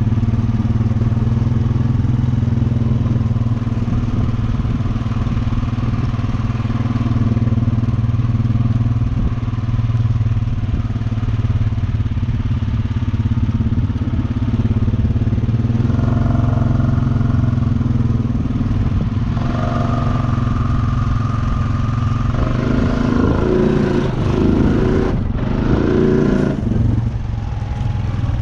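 Honda Rancher 420 ATV's single-cylinder engine running steadily while riding along, with a rougher, noisier stretch of a few seconds near the end.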